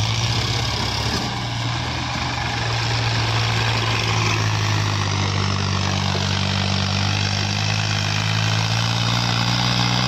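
Diesel tractor engine running steadily with an even, unbroken note.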